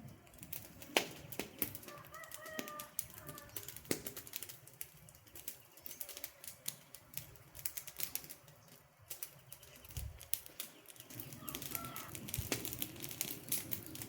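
Wood campfire crackling, with irregular sharp pops and snaps from the burning logs. A short bird call sounds about two seconds in and again later on.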